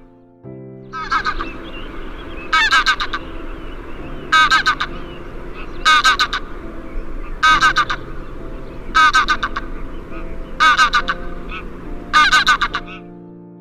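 A bird giving a loud, harsh, honking call eight times, evenly about every one and a half seconds, over soft background music with held notes.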